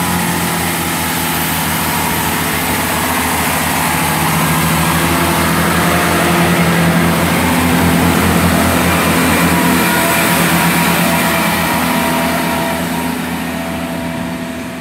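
Class 165 diesel multiple unit's underfloor diesel engines running loudly as the train pulls away, the sound swelling to a peak about halfway through and then fading.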